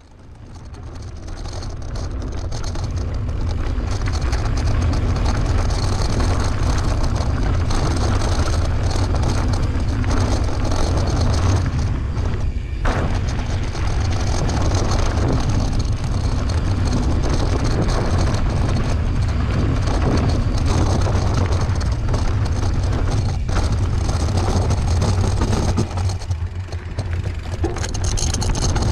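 Steady wind rumble on the camera's microphone from a mountain bike moving at speed, a deep buffeting with an even hiss over it.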